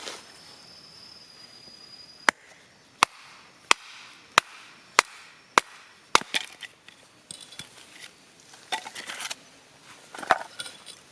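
Firewood being chopped: seven sharp, evenly spaced strikes about two-thirds of a second apart, then lighter scattered knocks and rustling as the split wood is handled.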